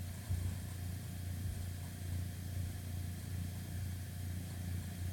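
Steady low hum in the background, with a faint even hiss.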